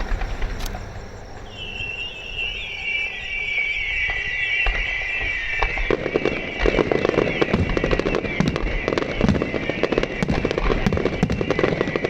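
Fireworks: a mass of high whistling fireworks starts about a second and a half in, and from about six seconds dense crackling pops join in and keep going.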